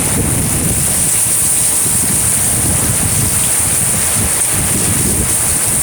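Strong wind buffeting the microphone: a loud, steady rush with uneven low rumbling gusts.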